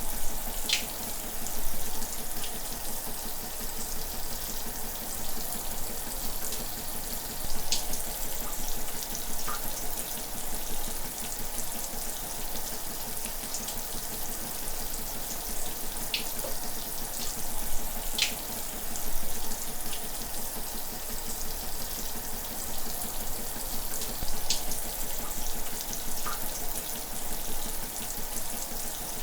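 Shower running steadily: a continuous hiss of water spray, with occasional splashing drip sounds standing out every few seconds.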